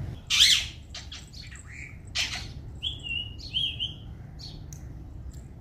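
Birds chirping and calling: a loud sharp call about half a second in, another about two seconds in, then a quick run of short falling whistled notes.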